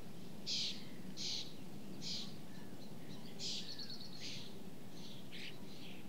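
A bird giving a series of short, harsh, scratchy calls, about six in all, with a brief rapid rattle in the middle, over a steady low background noise.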